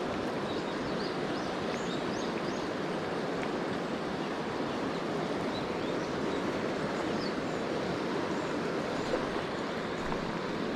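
Mountain stream rushing steadily over rocks, with a few faint high chirps above the water noise.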